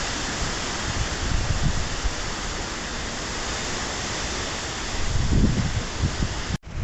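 Strong wind blowing with a steady hiss, and a gust buffeting the microphone about five seconds in. The sound cuts out suddenly for a moment near the end, as at an edit.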